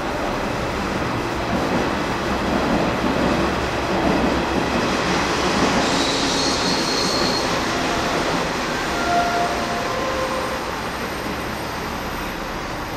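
Hokuetsu Express 'Hakutaka' limited express electric train pulling out and receding along the platform. Steady rolling wheel-and-rail noise swells, then fades as it draws away, with a few brief high squeals from the wheels about halfway through.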